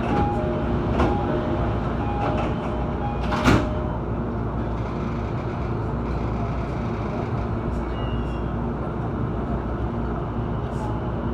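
Steady running rumble inside a JR Saikyo Line commuter train. For the first three seconds a two-note chime repeats over the rumble, then there is a single sharp knock about three and a half seconds in.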